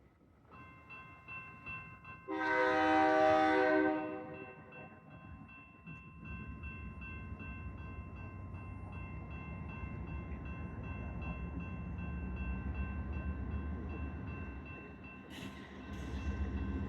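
Freight locomotive horn sounding one long blast about two seconds in, over steady high ringing tones, then the low rumble of the approaching container train builds. Two short sharp noises come near the end.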